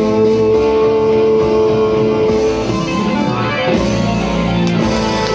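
Final bars of a guitar-accompanied bard song: a long held note lasting until about two and a half seconds in, then closing guitar chords.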